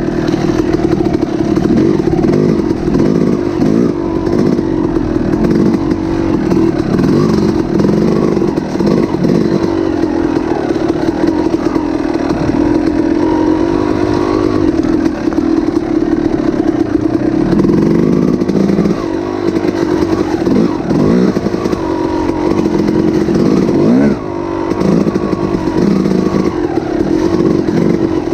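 Heavy hailstorm: a loud, continuous dense clatter of hail with a steady low drone underneath, briefly easing about 24 seconds in.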